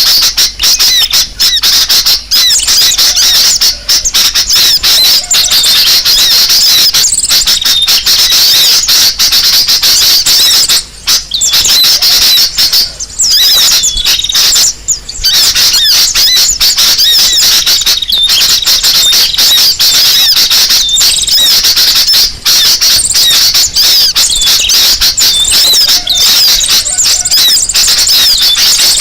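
Bird-lure recording of many small birds chattering and twittering at once in a dense, continuous, high-pitched commotion, the agitated calling used to draw other birds in. There are brief short breaks about a third and halfway through.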